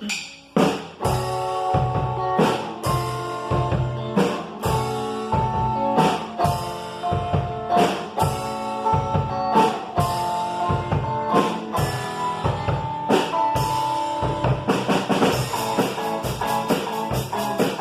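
Rock band playing live. A drum kit keeps a steady beat with bass drum and snare under held melodic lines, after a few opening drum hits. The cymbal ticks grow denser near the end, and no voice is singing.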